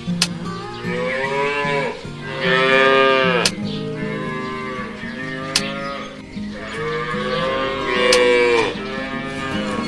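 Cow mooing: three long, drawn-out moos, the last the longest, over soft background guitar music.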